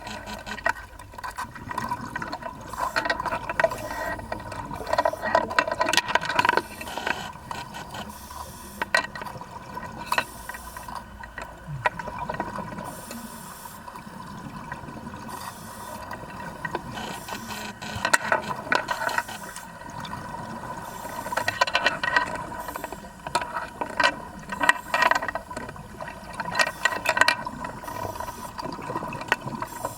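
Vacuum pump suction rig running: a steady whine under irregular rattling and clicking that comes in clusters.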